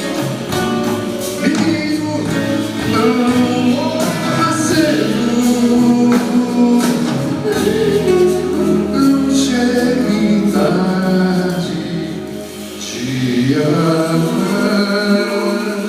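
Live Brazilian band music with guitars, electric bass, drums and piano, and wordless singing over it. The music thins briefly about three-quarters of the way through, then builds again.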